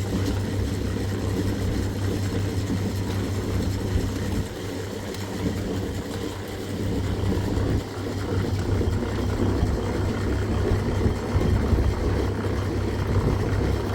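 An engine running steadily with a low hum, with slight dips in level partway through.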